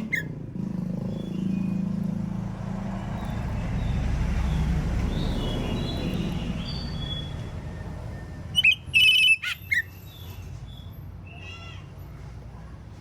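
A low rumble, like a passing vehicle, swells and fades over the first several seconds. Then, about nine seconds in, an Oriental magpie-robin gives a short burst of loud, sharp whistled notes, followed by a few fainter calls.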